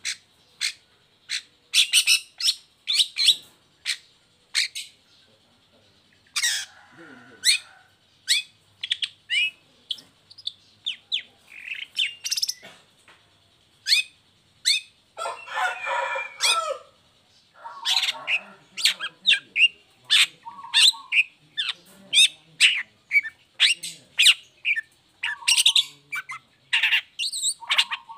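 Long-tailed shrike (cendet) singing a fast run of short, sharp chirps and whistled notes, with a harsh chattering burst about halfway through.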